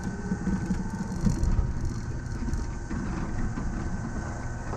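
Running noise of a Yamaman Yukarigaoka Line rubber-tyred people-mover train heard from the driver's cab as it travels along its concrete guideway: a steady low rumble with a faint steady whine above it.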